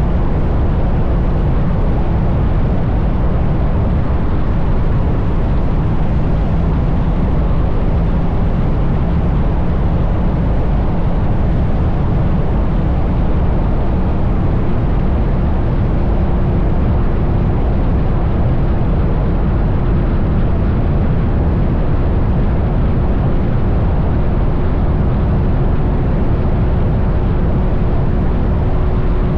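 Triumph Bonneville T100 parallel-twin motorcycle cruising steadily at highway speed: a constant rush of wind and engine with a faint steady tone that rises slightly in pitch in the second half.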